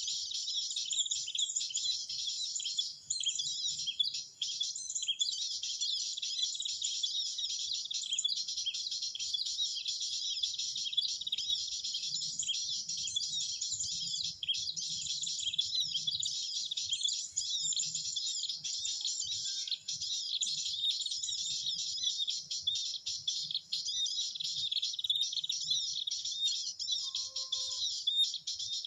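Dense, continuous high-pitched bird chirping and twittering, with a brief lower call near the end.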